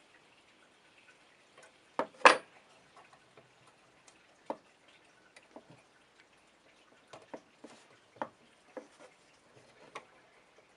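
Scattered clicks and light knocks of small hard parts being handled and set down, with a sharper double knock about two seconds in.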